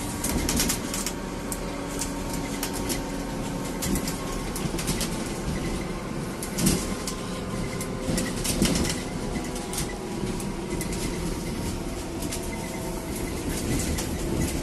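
Cabin of a Scania Citywide 12LF CNG city bus underway: the gas engine and road noise make a steady low rumble, with frequent short rattles and clicks from the interior fittings and a couple of louder knocks around the middle.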